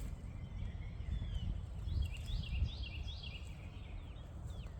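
A bird singing a quick run of about five repeated falling chirps around two seconds in, with a few other short calls near the end, over a steady low rumble.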